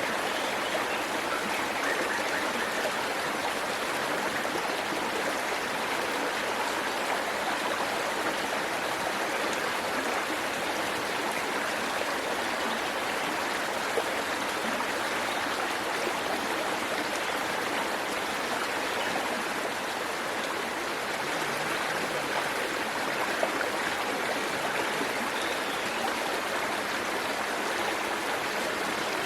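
Waterfall water rushing steadily in an even, unbroken wash, with two faint ticks partway through.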